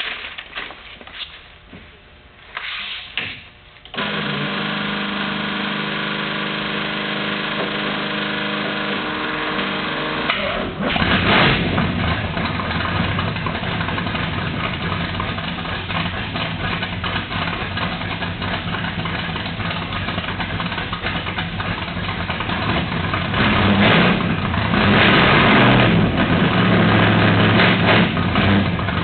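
A 1987 Chevrolet Camaro Z28's V8 being started: after a few knocks, a steady hum runs for about six seconds, then the engine catches about eleven seconds in and runs. It is revved louder in the last few seconds.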